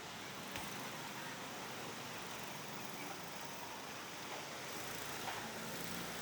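Wind blowing steadily, an even hiss with no gusts or breaks.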